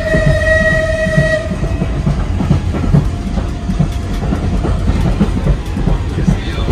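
Heritage railway passenger train running on the line: a steady low rumble and clatter of the wheels on the track. A high, steady multi-note tone over it stops about a second and a half in.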